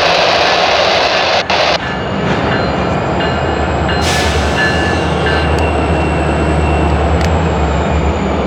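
Diesel switching locomotive working a cut of freight cars, its engine running steadily. A loud rush of hissing noise comes in the first couple of seconds, and a shorter one about four seconds in.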